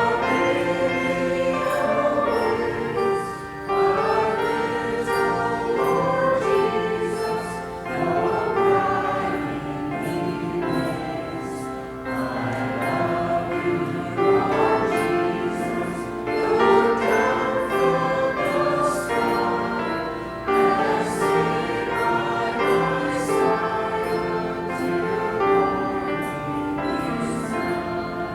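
A church choir singing.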